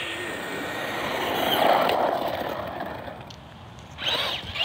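Electric RC truck driving past at speed: the tyre and motor noise swells to a peak about a second and a half in, then fades away. Near the end a brief rising and falling whine comes in, typical of the motor revving.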